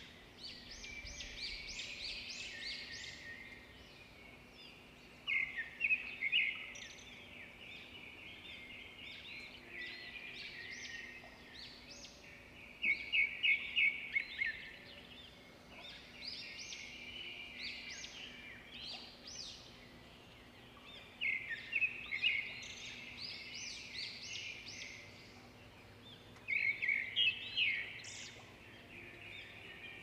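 Birds chirping in quick runs of high notes, with louder bursts of rapid trills every several seconds.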